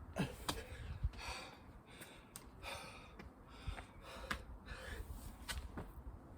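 A person breathing hard and gasping from exertion, in breaths about every second and a half. A few sharp clicks and knocks fall between the breaths.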